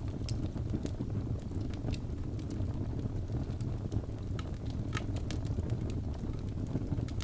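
Wood fire burning in a fireplace: a steady low rumble of flames with irregular sharp crackles and pops, several a second, the loudest about five seconds in.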